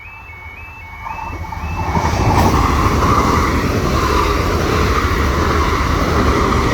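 A level crossing alarm warbles, then a Northern Ireland Railways Class 3000 diesel multiple unit approaches and runs over the crossing. Its engine and wheel rumble swell from about a second in and stay loud.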